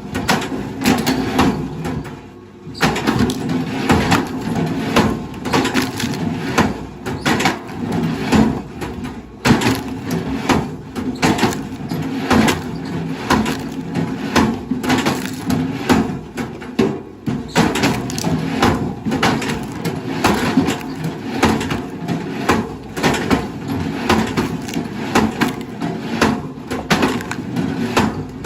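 A heavy machine's engine running steadily while wood is crushed, with many irregular sharp cracks and splintering snaps and a brief lull about two seconds in.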